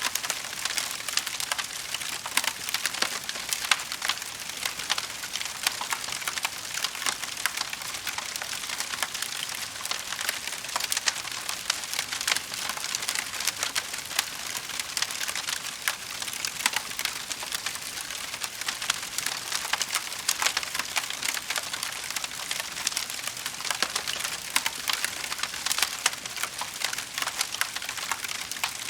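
Wood fire in a fireplace crackling continuously, a dense stream of small sharp pops and snaps with occasional louder cracks.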